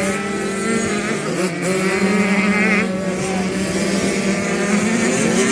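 Several motocross bike engines running at once on a dirt track. One holds a steady note while others rev up and down, and one revs up just before the end.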